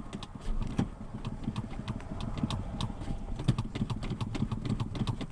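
Irregular run of clicks and knocks from the gas pedal and throttle linkage of a 1980 Ford F100 as the accelerator is pumped repeatedly, squirting fuel into the two-barrel carburetor to flood the warm 302 V8 before starting it.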